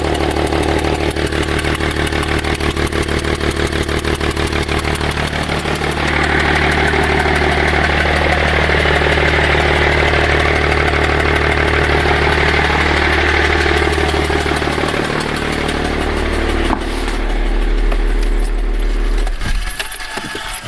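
BMW 530d's straight-six diesel running with its intake manifold removed, pulsing steadily. About six seconds in it grows louder with a stronger hiss, and near the end it stops.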